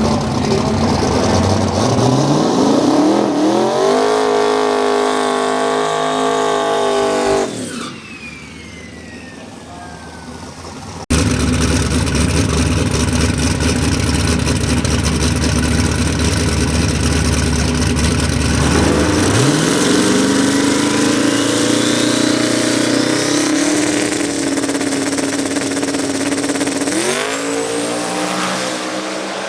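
Drag race car engines accelerating hard, their pitch climbing steeply and then holding high; this happens twice, with a sudden cut in the sound about eleven seconds in between the runs.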